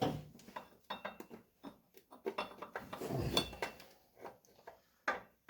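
Light metallic clinks, taps and clatter of metal parts and tools being handled, with a denser burst of clattering about three seconds in.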